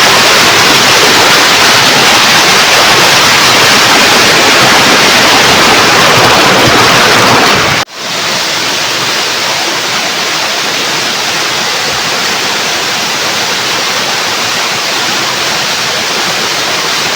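A waterfall's falling water rushes loudly and steadily. About eight seconds in it drops out for an instant, then goes on somewhat quieter.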